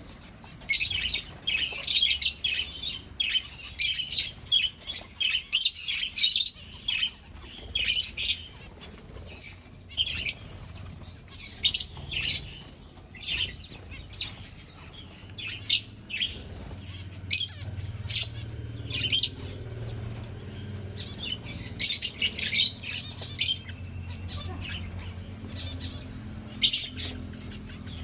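Aviary finches chirping: many short, high calls, sometimes in quick clusters and sometimes singly, from several birds.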